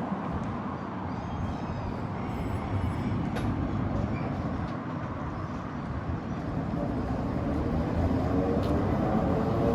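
Heritage tram running on its rails, a steady rumble that grows louder near the end as a hum comes in.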